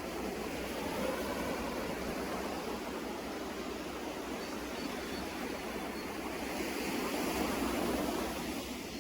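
Sea waves washing onto the shore, a steady rushing surf that swells louder about a second in and again near the end.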